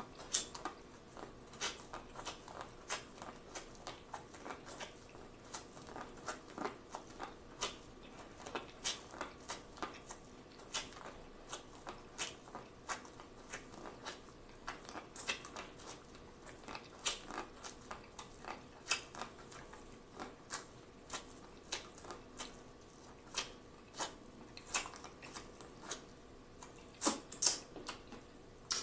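A person biting and chewing corn on the cob: kernels crunching in short, irregular clicks, a few each second, with the loudest pair near the end.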